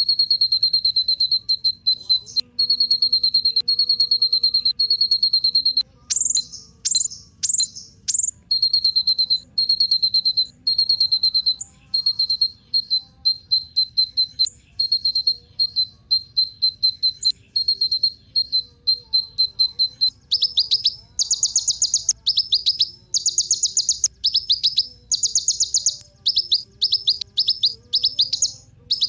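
Kolibri ninja sunbird singing: a high, rapid buzzy trill in long phrases with short breaks, a few louder sharp notes cut in about six seconds in, and from about twenty seconds in it turns to fast, louder bursts of chirps about twice a second.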